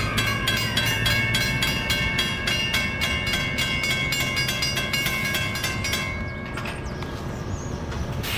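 A train passing at speed: a rapid, even clicking of wheels over the rail, about five clicks a second, under a high whine that falls in pitch, until the clicking stops about six and a half seconds in.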